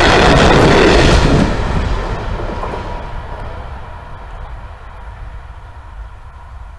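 Passenger train coaches rolling past over the level crossing, with loud wheel-on-rail rumble and clatter. The last coach clears about a second and a half in, and the rumble fades away steadily as the train moves off.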